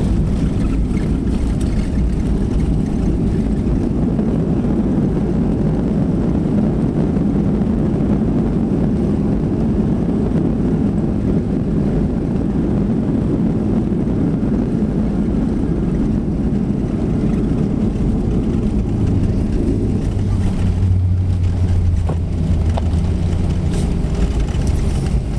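Airliner cabin noise during the landing: a steady low rumble of engines and rushing air, with a deeper hum coming in about twenty seconds in.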